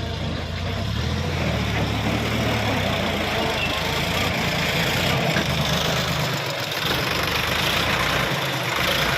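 Sonalika RX 50 tractor's diesel engine running steadily.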